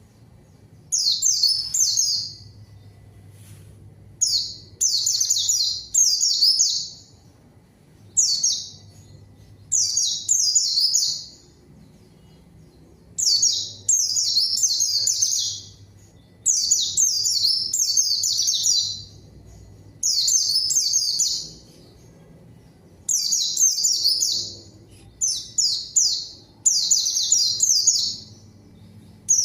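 White-eye (pleci) singing in repeated bursts of rapid, high twittering, each phrase about a second long with short pauses between, about a dozen phrases in all.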